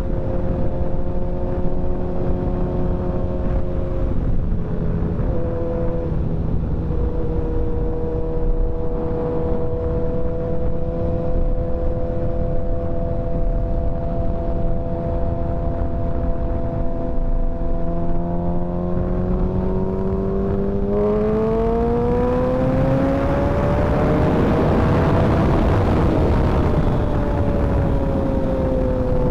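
Motorcycle engine running at a steady cruising speed over a rushing road noise. About two-thirds of the way in, the engine note climbs as the bike accelerates, then eases down a little near the end.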